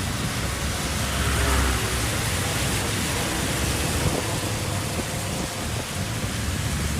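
Steady rushing noise with a low rumble underneath, swelling slightly about a second in and again near the end.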